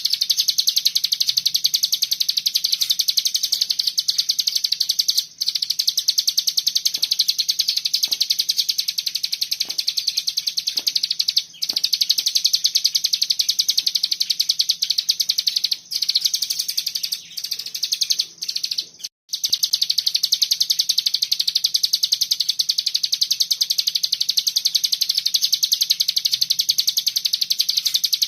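Hill prinia (ciblek gunung) giving its tight, rapid, high-pitched 'bren' trill almost without a break, interrupted only by a few short pauses around the middle.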